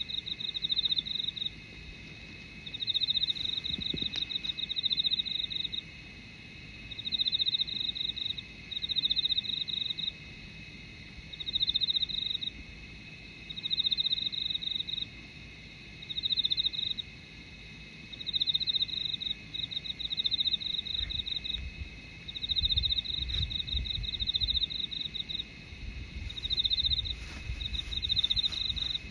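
An insect singing in repeated high-pitched trills, each about a second long, coming roughly every two seconds.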